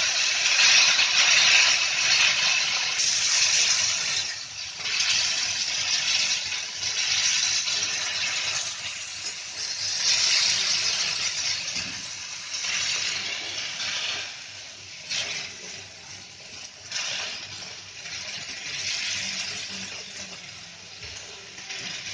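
Chopped boiled tomatoes sizzling in hot oil with fried onion and garlic on a cast-iron tawa, stirred and mashed with a wooden spatula. The sizzle is loudest at first and dies down over the second half, with the spatula scraping and knocking against the pan.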